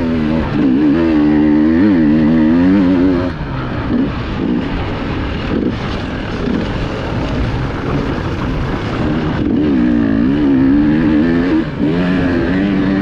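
Enduro motorcycle engine heard from the bike itself while ridden hard off-road, its revs rising and falling rapidly as the throttle is worked, loudest in the first few seconds and again near the end.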